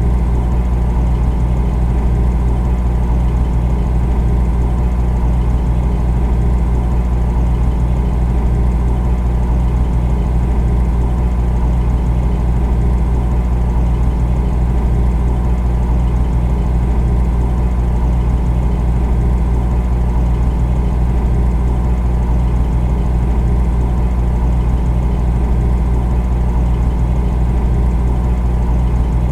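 Refrigerator running with a steady low hum that does not change.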